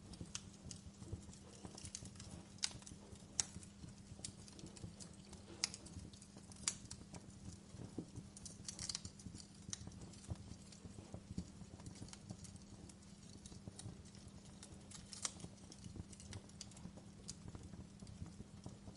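Wood fire crackling in a fireplace: irregular sharp pops and snaps over a low steady hum, with a few louder pops in the first six seconds.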